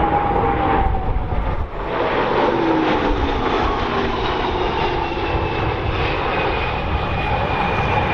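Boeing C-17 Globemaster III's turbofan engines on a high-speed flyby: a loud, continuous rush with whining tones that slowly fall in pitch as the aircraft passes.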